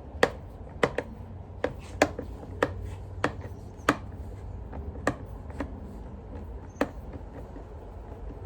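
Hand screwdriver working Torx screws out of a Dyson vacuum's plastic housing: a series of sharp clicks, roughly one every half second to a second, thinning out after about five seconds.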